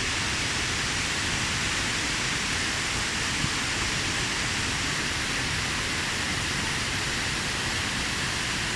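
A waterfall's falling water making a steady, even rushing noise.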